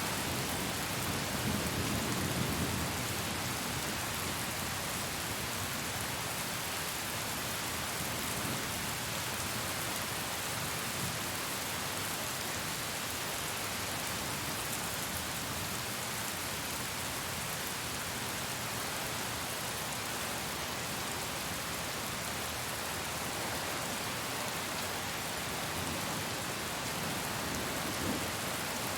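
Steady heavy rain hissing, with a low rumble of thunder fading away in the first few seconds.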